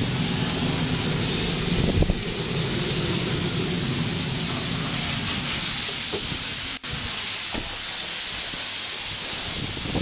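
Steady loud hiss with an engine's low hum underneath; the hum fades out about halfway through, and the sound drops out for an instant near the end.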